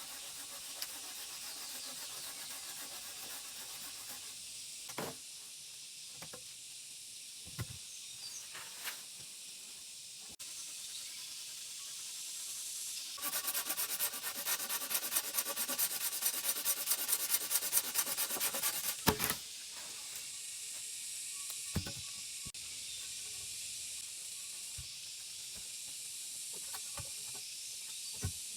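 A steady high outdoor hiss with scattered single knocks. About halfway in, a run of rapid scraping strokes lasts some six seconds and then stops.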